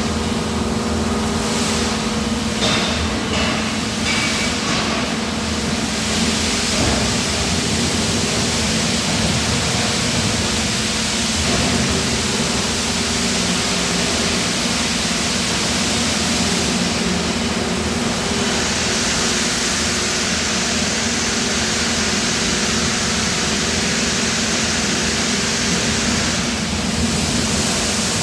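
Die-casting plant machinery running with a steady hum. A loud, even hiss sets in about six seconds in, thins briefly midway and cuts off near the end.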